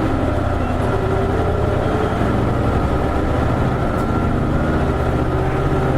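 Isuzu KL-LV280N1 city bus and its V8 diesel engine running steadily under way, heard from inside the passenger cabin, with the engine's low hum, road noise and cabin rattles.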